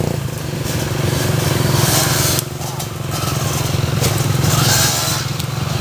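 Motocross dirt bike engine running at a steady pitch, with a brief rush of noise about two and a half seconds in.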